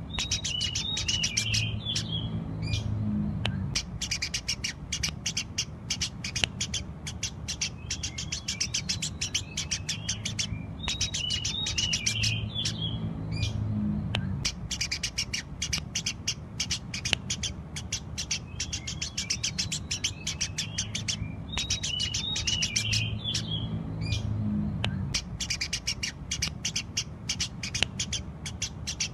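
Eurasian tree sparrows chirping rapidly and continuously, in lively full song, with the same run of chirps coming round about every eleven seconds.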